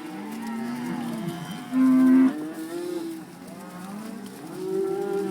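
A herd of cattle mooing, many calls overlapping one another, with one loud moo about two seconds in.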